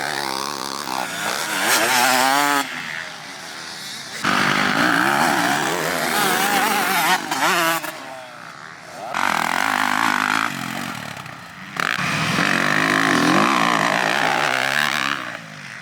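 Motocross bike engine being ridden hard, its pitch sweeping up and down as it revs, with several sudden drops where the throttle is shut off and picked up again.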